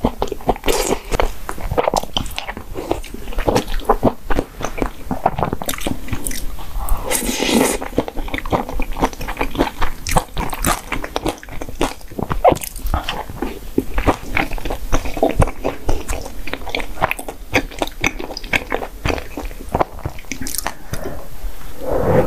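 Close-miked chewing of corn cheese: sweet corn kernels and melted cheese being bitten and chewed, making a dense run of small wet clicks and crunches.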